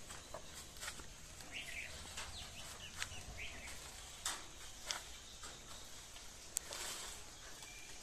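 Faint bird chirps over outdoor background noise, with a few sharp clicks scattered through, the sharpest about six and a half seconds in.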